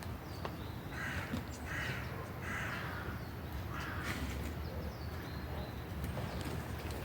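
A crow cawing, four harsh caws in the first four seconds or so.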